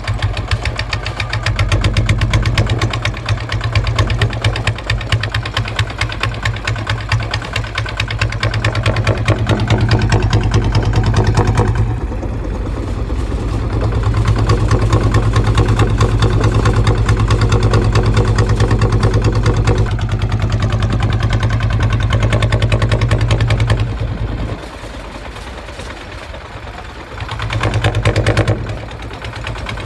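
Kubota ZT 155 single-cylinder diesel engine running with a fast, even firing beat. Its level and load shift about 12 and 20 seconds in, ease off to a quieter stretch near 25 seconds, then pick up again near the end.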